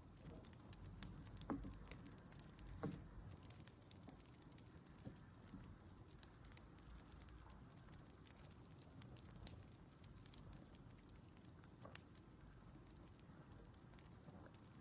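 Faint crackling of burning firewood: scattered sharp pops over a low hiss, with a few louder knocks.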